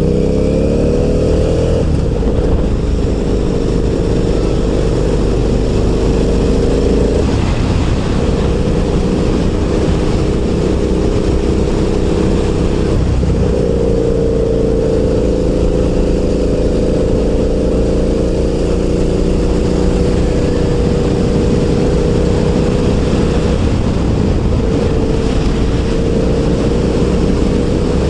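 KTM 990 Super Duke's LC8 V-twin engine under way, over a haze of wind noise. Its pitch climbs over the first two seconds, then holds steady with brief breaks about 7, 13 and 24 seconds in, like gear changes.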